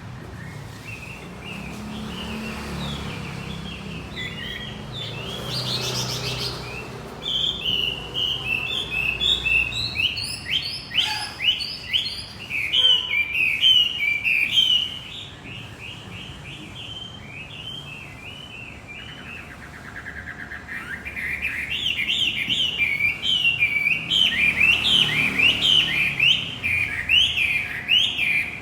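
Male wambi macet singing: a rapid, twittering run of short high chirps, swelling into two long louder stretches of song, one in the middle and one near the end.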